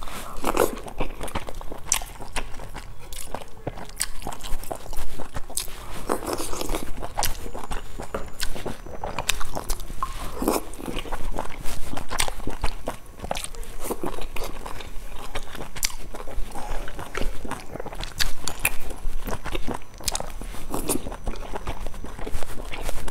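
Close-miked eating sounds: chewing and wet mouth noises from bites of boiled dumplings, with many sharp clicks, some from chopsticks against the glass dipping bowl.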